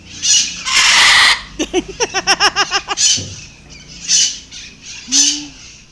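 Parrots squawking: a harsh screech about a second in, then a quick run of short repeated notes, followed by a few separate single squawks.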